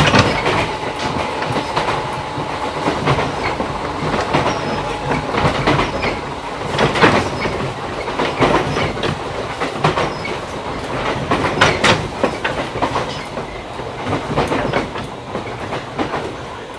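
A JR 211 series electric train running, heard inside its motor car: a steady rumble of the running gear and DC traction motors, with the wheels clicking irregularly over rail joints.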